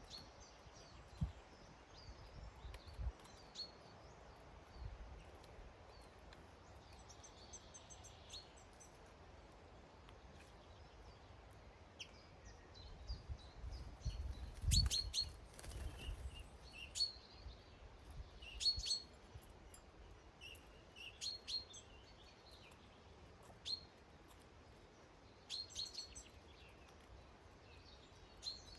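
Small garden birds giving short high chirps on and off, more often in the second half, with a low thump about halfway through.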